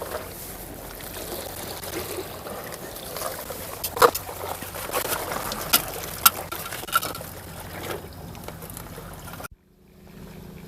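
Seawater lapping and trickling against the shore, with a handful of sharp clicks and knocks in the middle. The sound cuts off abruptly near the end, and a quieter steady hum follows.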